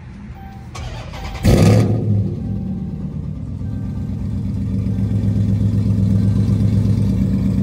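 Dodge Charger SRT8's 6.4-litre HEMI V8 starting about a second and a half in with a loud flare of revs, then settling into a steady idle.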